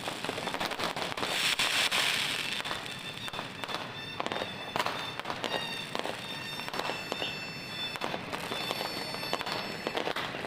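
New Year's Eve fireworks and firecrackers going off: many sharp bangs and crackles, with a denser, louder burst about two seconds in, over high steady tones.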